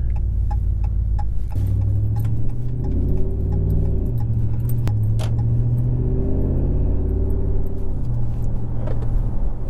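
2015 Ram 1500's 5.7-litre Hemi V8 through a Carven Competitor Series cat-back exhaust, accelerating under throttle. The exhaust note rises in pitch, drops at a gear change about four seconds in, then rises again and drops at another shift near the end. Light clicks and rattles can be heard over it.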